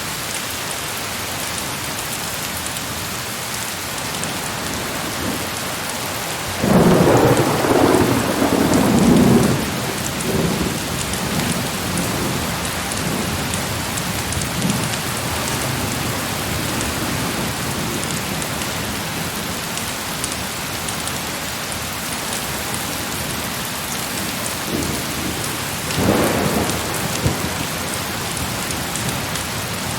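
Heavy rain falling steadily, with two rolls of thunder: a loud one about seven seconds in that rumbles for a few seconds, and a shorter one near the end.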